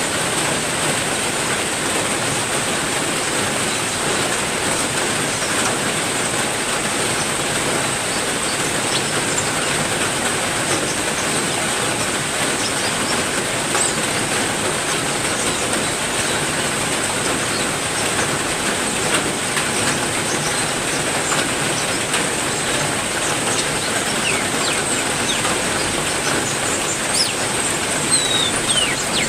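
Heavy rain falling steadily, with a thin, steady high-pitched whine above it and a few short bird chirps near the end.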